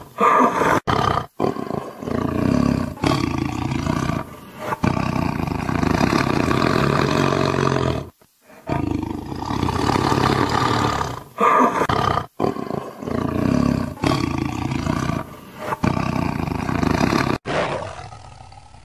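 Tiger roaring, a string of loud roars broken by several abrupt short gaps and tapering off near the end.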